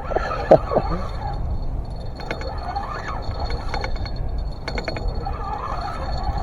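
Wind rumbling on the microphone. About half a second in there is a short, loud call that falls in pitch, and a few quick bursts of clicking follow later.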